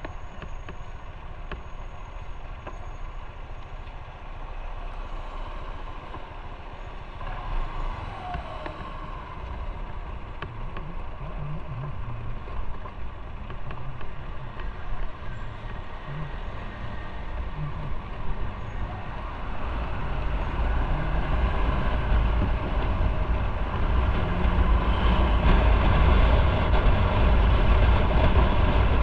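Motorcycle on the move: steady engine and wind rumble, growing louder over the last third.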